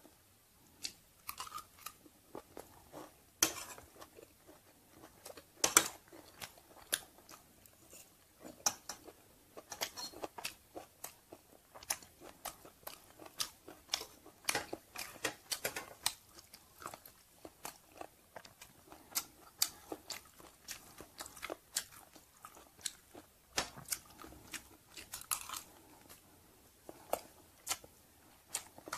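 Close-miked chewing and biting of stir-fried chicken organs and rice, with irregular sharp crunchy clicks throughout and a few louder ones.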